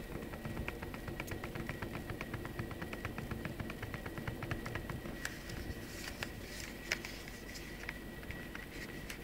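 Nokia N85 slider phone clattering: a rapid, even run of small plastic clicks from the loose slide mechanism, thinning to scattered clicks after about five seconds. The rattle is the sign of play in the slider, a build-quality flaw.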